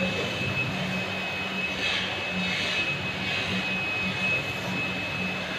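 Steady machine drone with a constant high whine and a low hum underneath, running evenly throughout.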